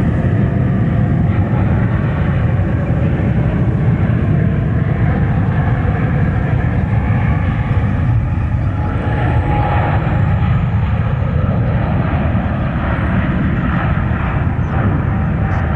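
Jet airliner engines running loud and steady, with most of the sound low-pitched.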